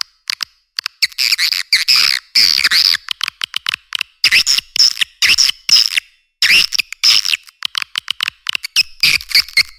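Swiftlet lure call of edible-nest swiftlets: rapid trains of sharp clicks and buzzy twittering chirps in bursts with short gaps, thin-sounding with the low end cut away. It is the call played in swiftlet houses to attract birds to roost and nest.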